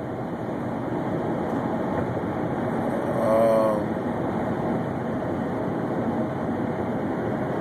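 Steady road and engine noise inside the cabin of a moving 1998 Honda Accord with a four-cylinder VTEC engine, which has a severe misfire. About three seconds in, a short voice-like sound rises briefly above the noise.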